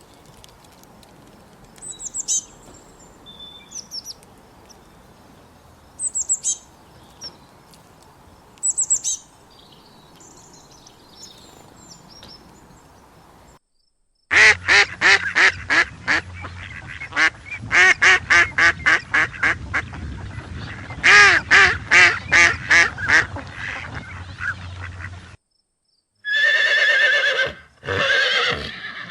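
Clips of animal calls separated by short silences: first a few scattered short, high bird chirps, then a long run of loud, rapid, evenly repeated bird calls. Near the end comes another loud animal call.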